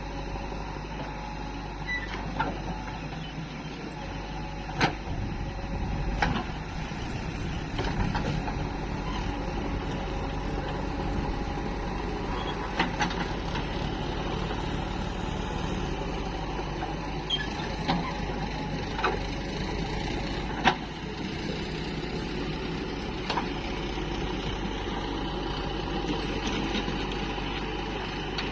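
Diesel engines of a backhoe loader and tractors running steadily, with a sharp clank or knock every few seconds, about nine in all.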